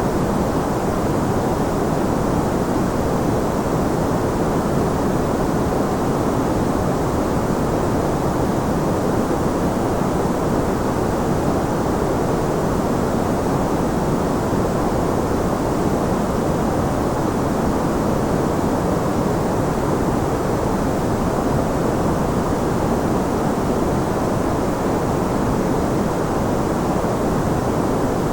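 Steady, unchanging white noise, heavier in the low end than the high, like a dull rushing hiss.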